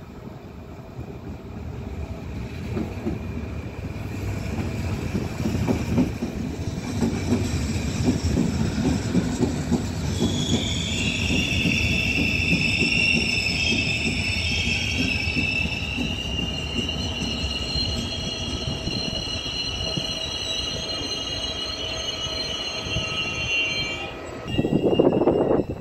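Passenger train moving through a station: a rumble of steel wheels on the rails builds up. From about ten seconds in, a high metallic wheel squeal of several held tones joins it. The squeal stops abruptly near the end, followed by a short, louder burst of noise.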